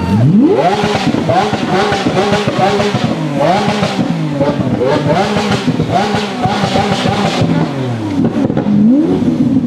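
A sports car engine revs hard: right at the start the pitch shoots up from idle, then climbs and falls repeatedly, dropping off and rising once more near the end.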